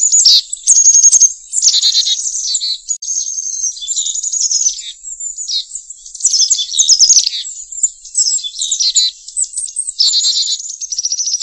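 A songbird singing a long, varied song: rapid trills and chirps in quick succession, almost without a break.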